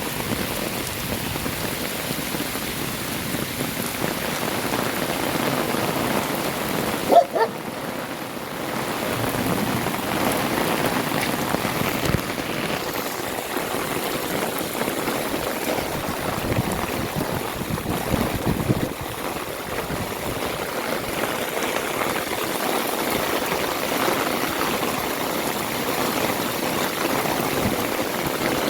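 Heavy rain falling steadily, an even hiss and patter. About seven seconds in, a single short, sharp pitched sound cuts through it, louder than the rain.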